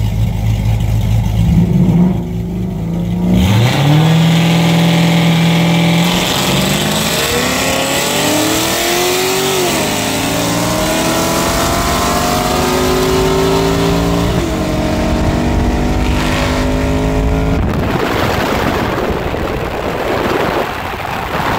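Two V8s, a 2017 Mustang GT 5.0 heard from inside its cabin and a Chevy pickup's 6.0, running side by side and then accelerating hard in a race. After a few seconds of steady running the engine pitch shoots up, then climbs in long pulls that drop back twice as gears change. Near the end the engine sound gives way to wind and road noise.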